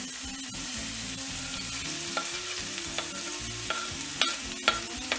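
Finely chopped onion and celery root sizzling in hot olive oil in a frying pan as they are stirred with a wooden spatula, with a few short taps and clicks now and then.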